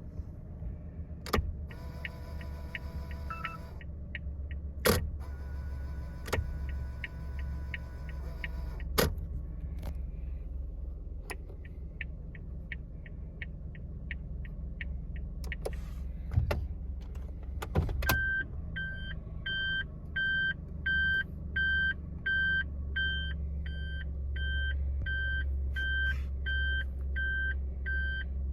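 A Suzuki Hustler's three-cylinder engine idles steadily. The turn-signal relay ticks evenly in three separate runs, for the indicators and then the hazard lights, with loud switch clicks between them. About two-thirds of the way in, the reverse-gear warning buzzer starts: a high beep repeating about one and a half times a second.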